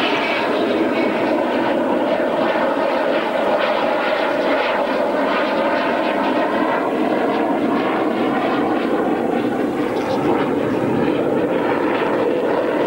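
Dassault Mirage jet fighter flying a display, its jet engine making a loud, steady rushing noise.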